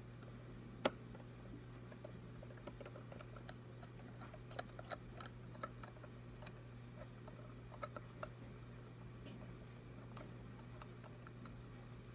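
Scattered light clicks and taps of small metal hardware and a screwdriver being handled, one sharper knock about a second in, over a steady low hum.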